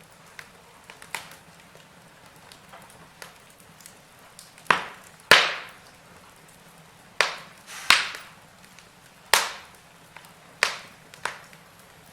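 Wood fire burning in a fireplace: a faint hiss with light crackles, then a run of loud, sharp pops from about halfway in, each dying away quickly.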